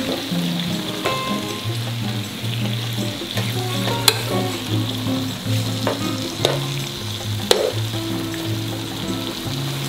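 Chili-marinated duck sizzling and frying in a hot nonstick pan as it is tossed with metal tongs, with a few sharp clicks of the tongs against the pan.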